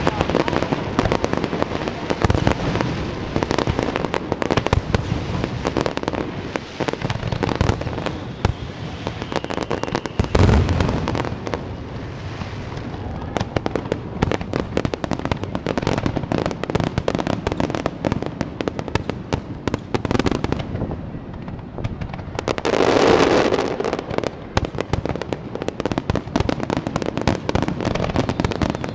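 Aerial fireworks display: a continuous stream of shells bursting, with rapid bangs and crackling and a heavier low boom about ten seconds in.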